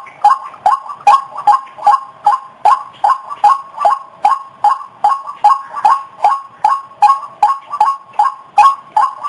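White-breasted waterhen (ruak-ruak) calling non-stop, a loud, rhythmic string of short repeated notes at about two and a half a second. This is a lure call recording used to attract waterhens.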